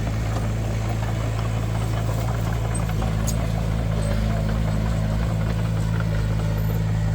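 Heavy diesel engine of construction machinery running steadily at an even speed.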